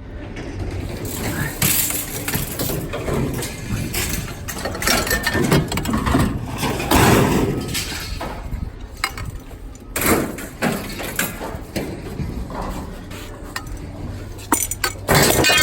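Scrap metal being handled and tossed onto a pile during unloading: irregular clanks, rattles and knocks of metal against metal, with a sharp clank about ten seconds in and a busier clatter near the end.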